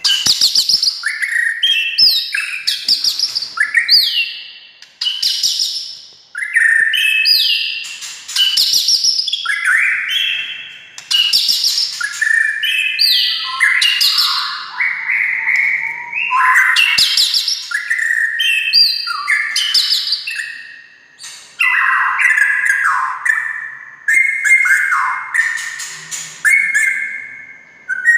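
White-rumped shama (murai batu) singing loudly: a continuous run of quick phrases, each a rapid series of clear notes stepping down in pitch, repeated about once a second. Near the end the song shifts to steadier, level whistled notes.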